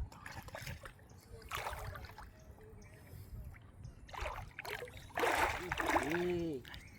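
Water splashing and sloshing in several bursts, the loudest lasting about a second around five seconds in, followed by a brief voiced call.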